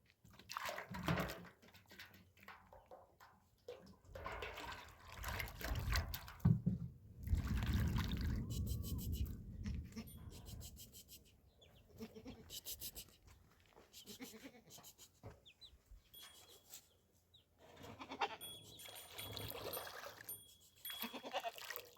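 Goats bleating now and then, among other short irregular noises.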